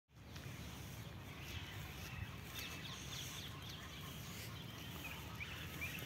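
Songbirds chirping faintly, scattered short falling calls every second or so, over a steady low outdoor rumble.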